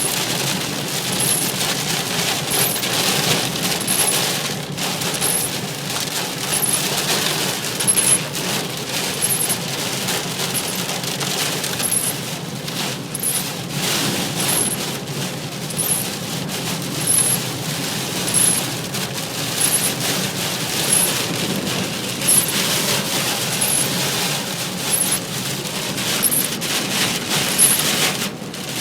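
Extremely heavy rain drumming fast and dense on a car's roof and windscreen, heard while driving, with a faint high tick repeating about once a second.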